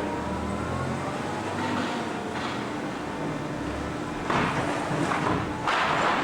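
A Cram-A-Lot HX-72-W baler and its conveyor running, a steady mechanical hum with a constant drone. Two louder bursts of rushing noise come about four seconds in and again near the end.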